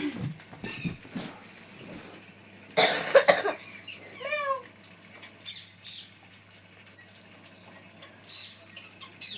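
Pet parrot calling: a loud, harsh rasp about three seconds in, then a short call that rises and falls in pitch, with faint scattered clicks and rustles around them.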